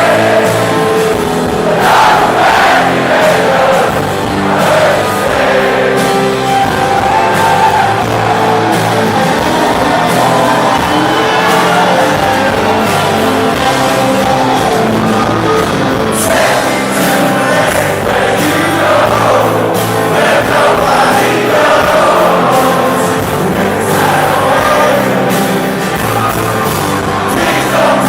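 Live rock band playing, with a sung lead vocal and audience voices mixed in.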